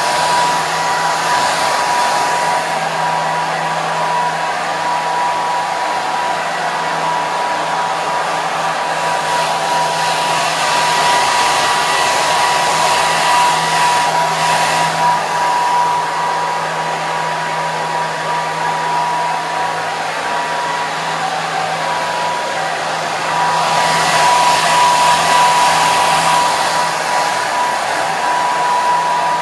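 Hair dryer running steadily: a continuous rush of blown air with a steady whine and a low motor hum, swelling slightly louder twice.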